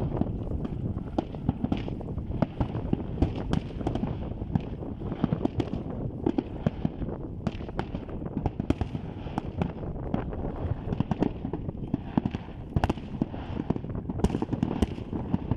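Fireworks display: a dense, irregular string of sharp bangs and crackling pops, several a second, over a steady low rumble.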